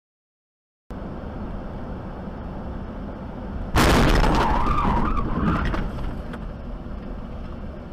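Car and road noise, then a sudden loud car crash impact about four seconds in, followed by a wavering squeal of skidding tyres or scraping metal.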